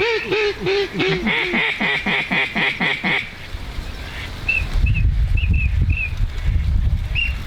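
Duck call blown in a mallard hen's quacking series: loud, evenly spaced quacks that quicken and stop abruptly about three seconds in. A few short high peeps and low rumbling noise follow.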